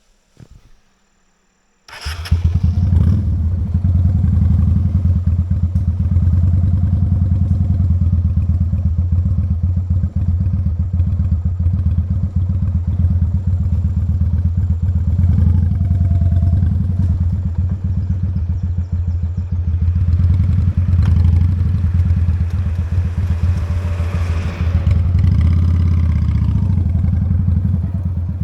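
Honda Steed's V-twin engine running steadily as the motorcycle is ridden, coming in suddenly about two seconds in after near silence.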